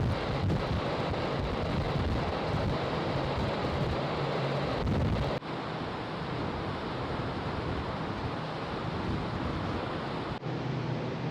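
Steady rushing wash of wind and sea noise with a low hum from a large car ferry under way. The sound changes abruptly twice, about five and ten seconds in.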